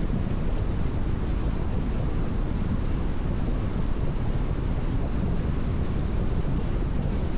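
Steady road noise of a car driving at expressway speed in the rain: tyres hissing on the wet road surface with a low rumble and wind noise.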